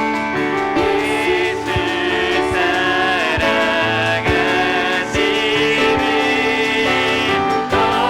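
Church worship team playing and singing a hymn: voices over instrumental accompaniment with a steady beat.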